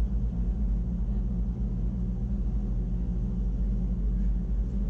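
Electric rack-railway train of the Wengernalp Railway running, heard from inside the carriage. It is a steady low rumble with an even electric motor hum on the climb.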